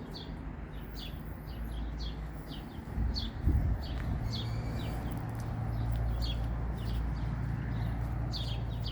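Birds chirping in short, sharply falling calls at irregular intervals, roughly one or two a second, over a steady low rumble. A couple of dull knocks come about three seconds in.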